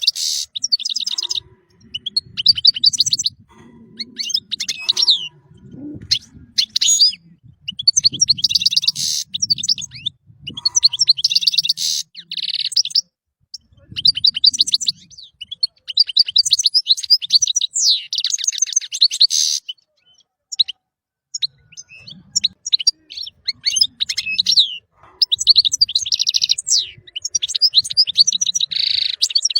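European goldfinch singing: bursts of rapid, tinkling twitters and trills in phrases of a second or two, broken by short pauses. A faint low rumble runs beneath parts of the song.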